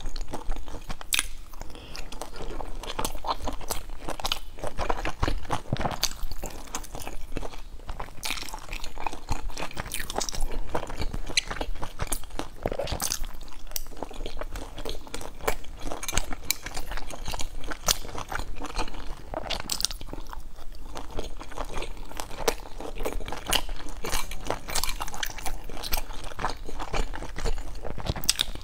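Close-miked biting and chewing of sauce-dipped pan-fried dumplings, a dense run of small crackly clicks and wet mouth sounds throughout.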